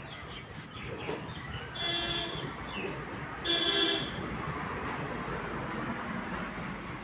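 A vehicle horn honks twice, briefly, about two seconds in and again about a second and a half later, the second louder, over steady background noise.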